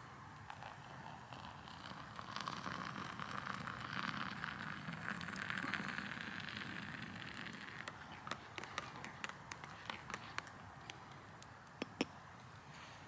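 Wood campfire crackling with scattered small snaps and pops. A rushing noise swells over several seconds in the middle and fades away.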